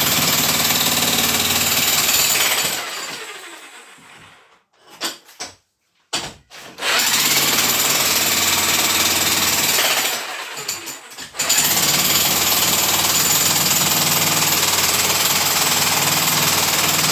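Demolition hammer chiselling out a fireplace's masonry, running in long stretches of steady hammering. It winds down after a couple of seconds, leaving a few seconds of near silence broken by short knocks, then starts again, eases off briefly past the middle, and runs on.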